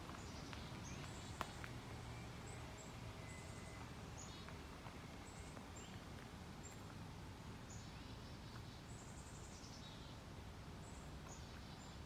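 Faint high-pitched bird chirps and short falling calls, repeated throughout, over a steady low rumble of background noise. A single sharp click about a second and a half in.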